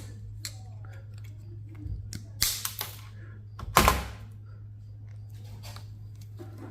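Sharp clacks and knocks of server parts being handled, the loudest a hard snap about four seconds in, over a steady low hum.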